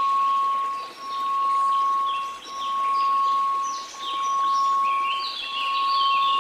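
A steady 1098 Hz sine tone that swells and fades about every one and a half seconds, over faint white noise. Higher tinkling, chime-like notes come and go above it.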